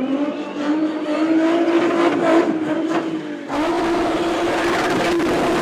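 A young boy imitating a car engine with his voice: one long steady engine-like note, a short break about three and a half seconds in, then a second steady note.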